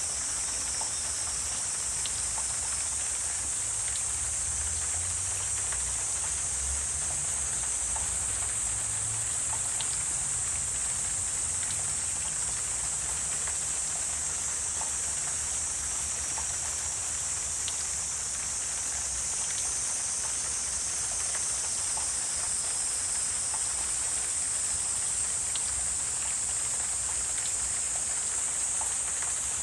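Wetland ambience dominated by a dense, steady, high-pitched insect chorus, with scattered faint ticks and a low rumble underneath.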